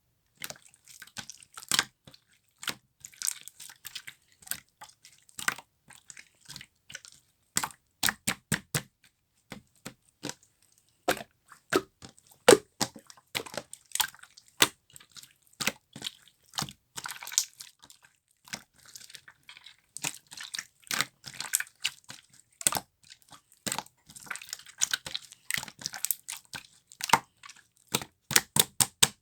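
Clear slime being squished and pressed by hand, giving many sharp, irregular clicks and pops, some in quick clusters.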